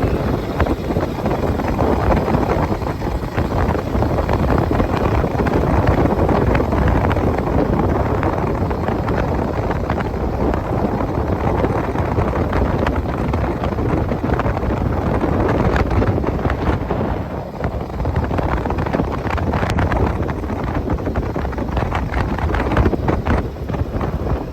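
A 1922 Maxim fire truck under way: engine and road noise of the moving truck, with wind buffeting the microphone.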